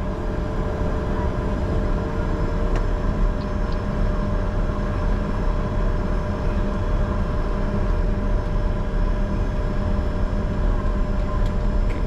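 Steady cockpit noise of a Bombardier Challenger 605 business jet taxiing, its two General Electric CF34 turbofans running at low power. It is heard as a constant deep rumble with a few steady humming tones, unchanging throughout.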